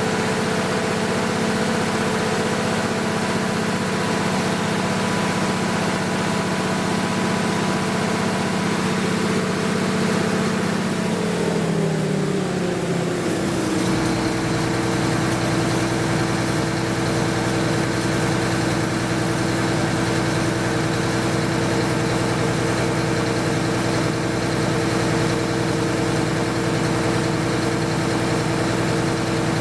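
MEP-006A military generator's six-cylinder diesel engine running under test after a rebuild. About halfway through its note falls over roughly three seconds as the engine slows, then it runs steadily at the lower speed with a deeper rumble.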